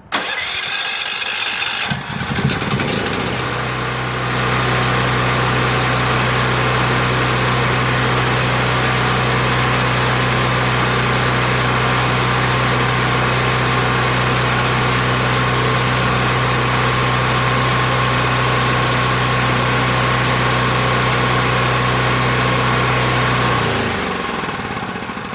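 Portable generator's engine running through an extended exhaust pipe, uneven for the first couple of seconds, then holding a steady speed for about twenty seconds before it is shut off and winds down near the end.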